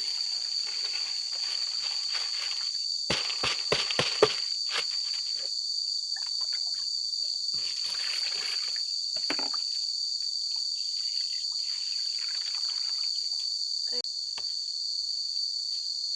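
Steady, high-pitched chirring of insects, like crickets, running without a break. About three to four seconds in comes a quick cluster of sharp knocks, with softer rustling and handling noise later on.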